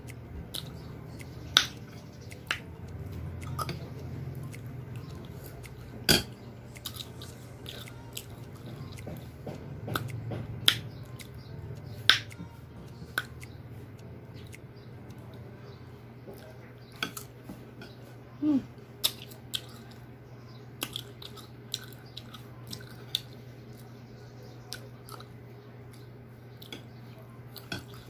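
Close-up eating sounds: chewing crunchy Indian mango dipped in alamang shrimp paste, with many scattered sharp clicks and smacks, over a steady low hum.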